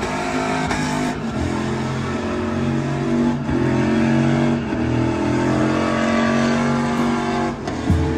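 A vehicle engine running loud at high, fairly steady revs, with short dips in the sound about a second in, around three and a half and four and a half seconds, and near the end.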